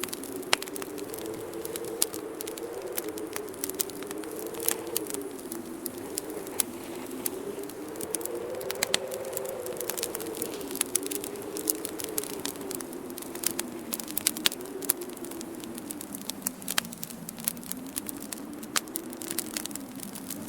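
Wood fire burning in a fireplace, crackling with frequent sharp pops, over a low moaning winter wind whose pitch slowly rises and falls.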